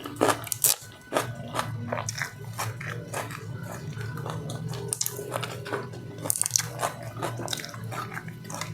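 A person biting into and chewing crunchy raw vegetables: a run of irregular sharp crunches, loudest in the first second and again about six seconds in, over a low steady hum.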